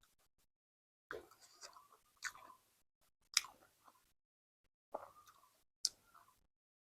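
A person chewing food in three short bouts, with silence between them.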